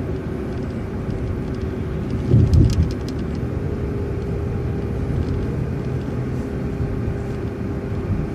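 Transit bus heard from inside while driving: a steady engine and road rumble with a constant hum. About two and a half seconds in comes a brief louder low thump with rattling.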